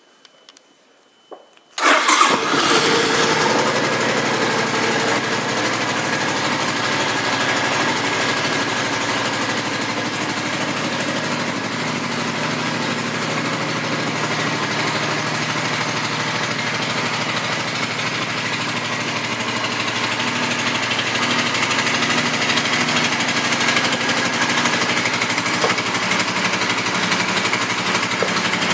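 A 2005 Suzuki Boulevard M50's fuel-injected, liquid-cooled 805 cc V-twin starts up about two seconds in and then runs steadily through its stock exhaust pipes.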